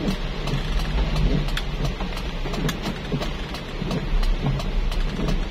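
Heavy rain falling on a car, with many sharp drop ticks over a steady hiss and the low rumble of the car driving.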